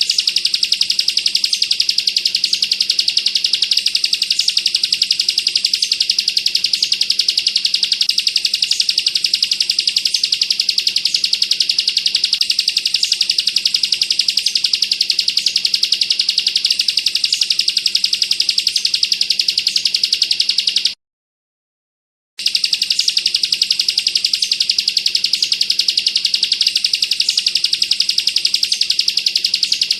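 Bar-winged prinia (ciblek) singing its rapid, tightly packed machine-gun trill ('bren rapat'), high-pitched and unbroken. It cuts out fully for about a second and a half around two-thirds of the way through, then resumes.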